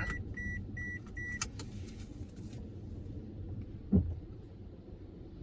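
Car interior while driving on a rough road: a steady low road rumble. A repeating electronic beep, about two or three a second, stops about a second and a half in, right before a click. A single loud thump comes about four seconds in.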